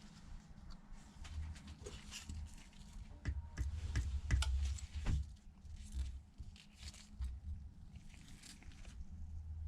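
Light clicks and taps of small metal parts and tools being handled inside an opened iPad as a metal plate is refitted. The clicks cluster about three to five seconds in, over a steady low hum.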